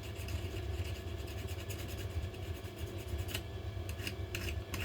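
A small hand file rubbing in short, irregular strokes, cleaning light burn marks off a part of a Makita DTD154 impact driver, over a steady low hum.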